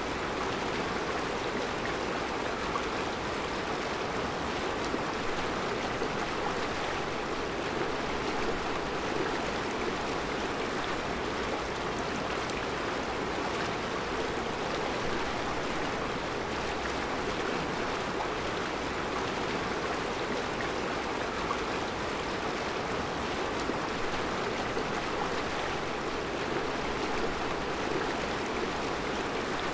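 Mountain river running over round rocks in a rocky bed: a steady rushing of water with no breaks.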